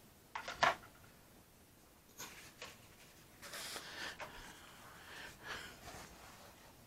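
Faint handling sounds as tools and materials are put away: two light knocks under a second in, then soft rustling and shuffling.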